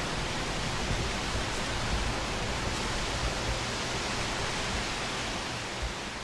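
Wind rushing through tree leaves, a steady dense rustling hiss, with an uneven low rumble of wind underneath.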